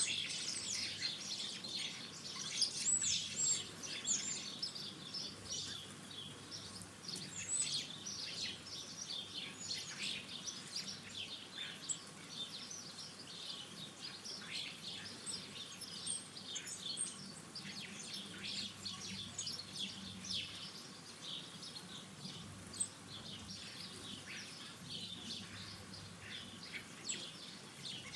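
Small garden birds chirping and twittering, a dense overlapping chatter of short high calls that thins out somewhat after the first dozen seconds.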